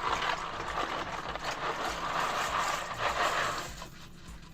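Dry rotini pasta poured from its box into a pot of water, a rustling rattle that dies away about three and a half seconds in.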